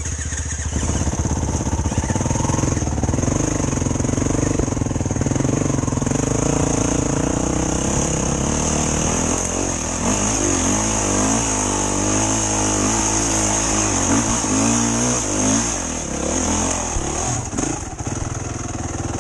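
Enduro dirt bike engine revving hard and unevenly, its pitch swinging up and down again and again as the rider works the throttle to climb a slope.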